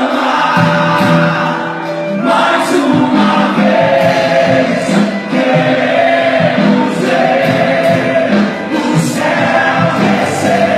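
Live church worship music: a band playing a gospel song while many voices sing along together.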